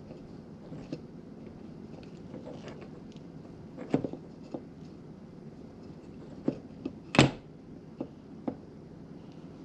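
Scattered small taps and clicks of hands working thread onto an eye screw on a small wooden piece, the loudest a little past the middle, over a steady low hum.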